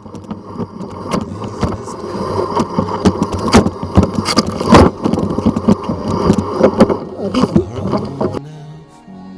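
Mountain bike rattling and clattering over rough ground, with many sharp knocks. It cuts off suddenly near the end.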